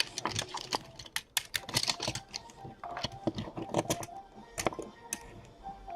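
Typing on a computer keyboard: quick, irregular key clicks in several runs.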